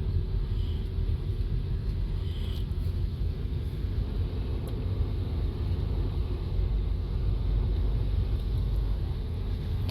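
A car driving along the road, with a steady low rumble of engine and tyre noise.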